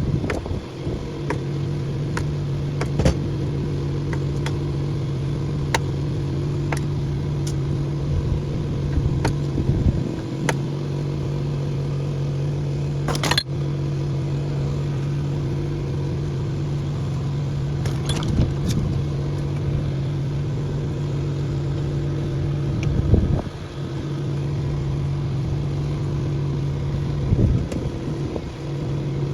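A machine running at a steady, unchanging pitch, with scattered short metallic clicks and knocks over the hum.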